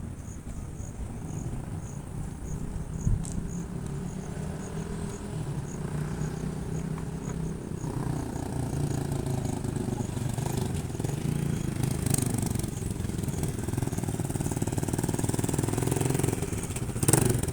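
A motor vehicle's engine running steadily with road noise. A faint, high, regular ticking comes about twice a second through the first half, and there is a short loud burst near the end.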